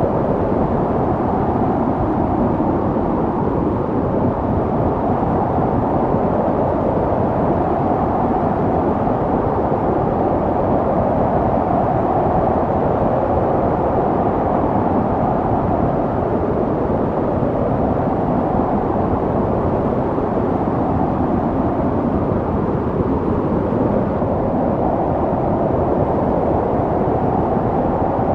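Snowstorm wind: a steady, dense rushing that swells and eases slowly.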